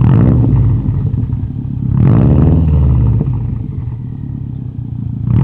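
Subaru WRX/STI turbocharged flat-four engine revved through an aftermarket cat-back exhaust: a rev at the start, a longer one about two seconds in that falls back, and another rising right at the end.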